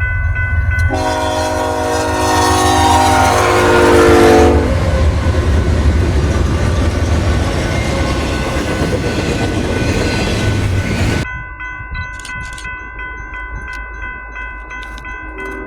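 A diesel locomotive's air horn sounds a chord whose pitch drops just before it stops, as the train passes. The train then rumbles by steadily. This cuts off suddenly about eleven seconds in, leaving quieter rail noise with clicks and a faint horn returning near the end.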